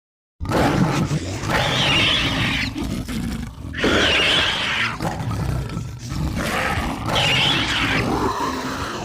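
Kothoga monster sound effect: a creature growling and wheezing in repeated breaths. It starts suddenly just under half a second in and repeats about every three seconds.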